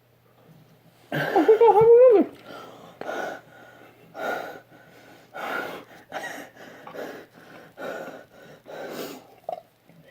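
A person lets out a loud, strained vocal groan with a wavering pitch, then breathes hard through the mouth in a string of heavy breaths, roughly one a second. This is the reaction to the burn of very spicy chicken wings.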